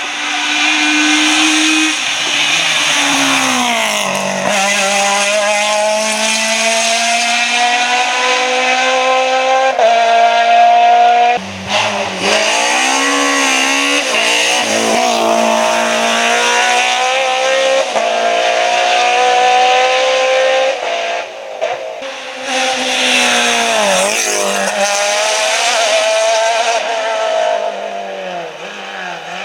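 Rally car engine driven hard, its pitch climbing through long pulls in each gear and then dropping sharply at the gear changes and lifts, several times over. The sound fades near the end.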